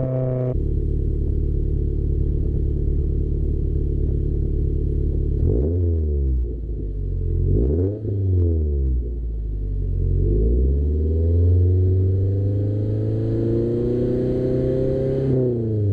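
Subaru flat-four engine through an aftermarket exhaust, running steadily and then revved: two quick blips up and back down, followed by a longer, slower climb in pitch that falls away near the end.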